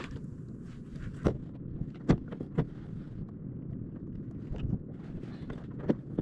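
A steady low rumble of wind and water, broken by four sharp knocks spread irregularly through it.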